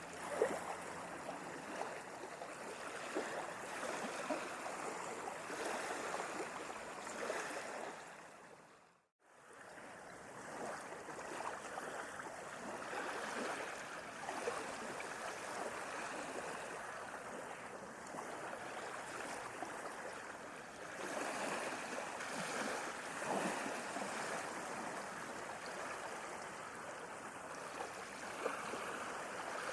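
Sea waves washing onto a shore, swelling and easing in surges with a fizzing wash. About nine seconds in, the sound fades briefly to silence and fades back in.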